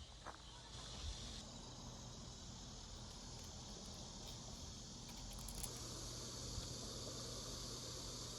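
Cicadas buzzing in a steady, high, even drone that grows louder about a second and a half in.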